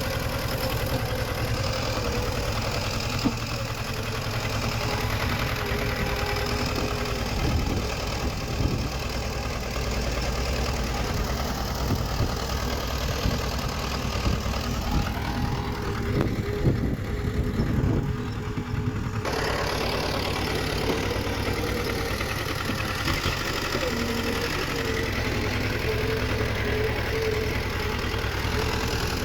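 Diesel engine of a small crawler bulldozer running steadily, with scattered knocks and clanks about a quarter of the way in and again around the middle.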